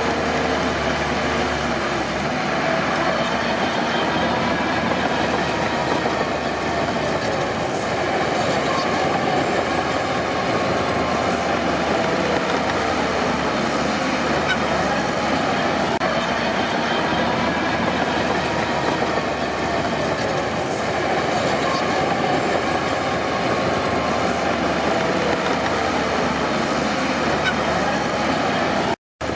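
Crawler bulldozer working: its diesel engine running under load with a wavering pitch, over the steady clanking and squeal of its steel tracks. The sound drops out for a moment near the end.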